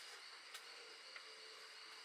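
Near silence: faint steady outdoor hiss with two soft clicks.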